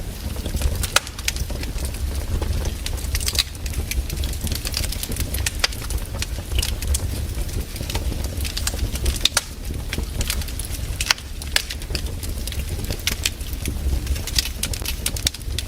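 Campfire burning, with wood crackling and popping in quick, irregular snaps over a steady low rumble.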